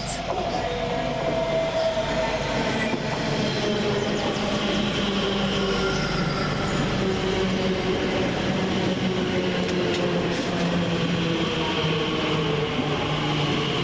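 Class 345 electric multiple unit moving through the station: a steady rumble of wheels on rail with a constant electric hum of its traction equipment.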